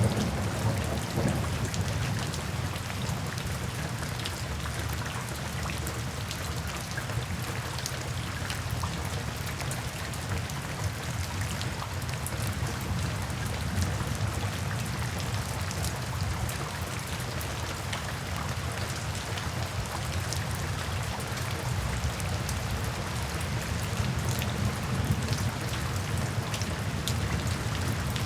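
Steady rain falling, with many individual drops pattering over an even hiss and a low rumble underneath.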